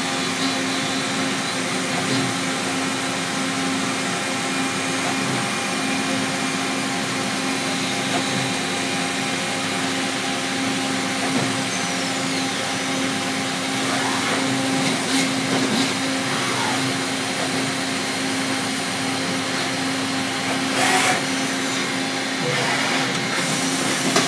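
1996 Makino A55 horizontal machining center running a machining program: a steady hum with a constant tone over hiss, and a few brief clicks.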